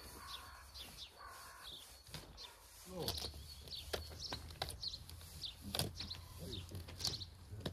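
Small birds chirping in short, scattered calls over a low steady rumble, with a few light knocks.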